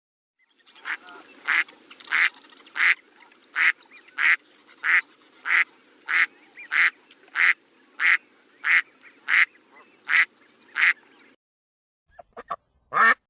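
A duck quacking about fifteen times in a steady run, roughly one and a half quacks a second. After a short pause, a few quicker quacks come near the end, the last one the loudest.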